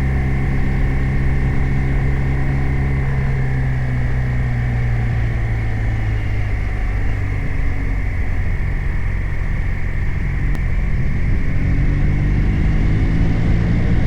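BMW R 1250 RT's boxer twin engine running on the road. Its note falls gradually over the first half as the bike slows, then rises again near the end as it pulls away.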